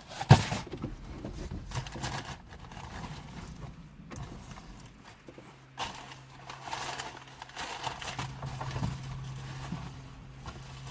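Gear being handled and moved about inside a truck cab: a sharp knock just after the start, then irregular rustling and small clicks of objects being shifted. A low steady hum comes in about six seconds in.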